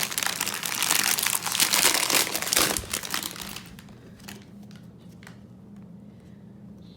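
Packaging being handled, crinkling and rustling for about three and a half seconds, then a few light taps.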